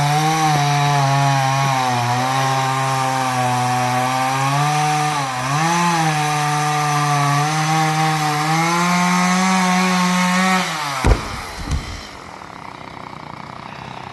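Two-stroke chainsaw running at high speed, its pitch sagging briefly about five seconds in, then dying away with a falling pitch about eleven seconds in. Two short knocks follow as it stops.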